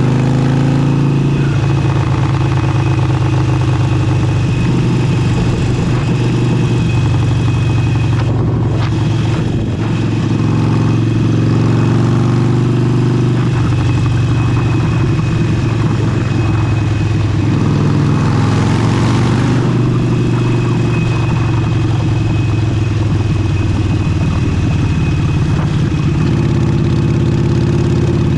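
Harley-Davidson Forty-Eight's air-cooled V-twin engine running under way through an aftermarket exhaust, with wind rushing over the camera microphone.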